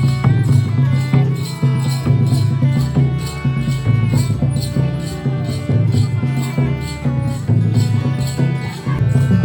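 Instrumental passage of Baul-style Bengali folk music, without singing: a drum keeps a steady low beat, a rattle or small jingles strike about twice a second, and a melodic instrument plays held notes over them.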